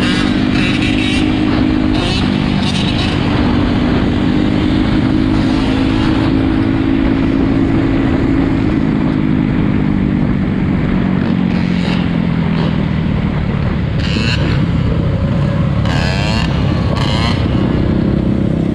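Four-wheeler engines running steadily; the engine pitch holds, then drops gradually about halfway through. Brief sharper sounds come in a few times near the end.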